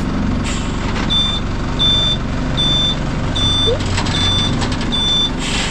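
A vehicle's reversing alarm beeping, one high beep about every 0.8 seconds starting about a second in, over an engine running steadily. A few sharp knocks come through near the middle and near the end.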